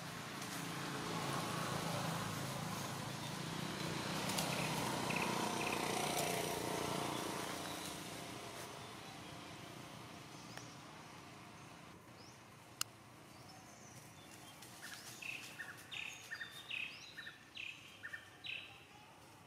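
Outdoor woodland ambience: a rushing, rustling noise swells and fades over the first several seconds. Near the end a bird sings a quick series of short, repeated chirps.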